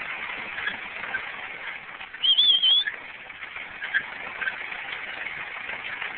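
A dog exercise mill running steadily under a dog, an even running noise with faint ticks, and a short high wavering squeak about two seconds in.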